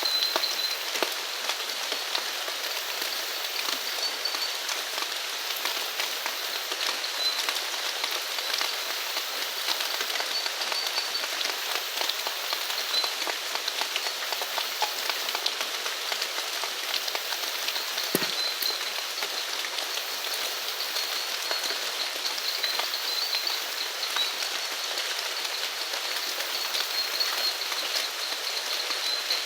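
Steady rain falling, with many separate drops heard in the hiss, and a small animal's short high chirps repeating faintly now and then. One closer, heavier drop lands about two-thirds of the way through.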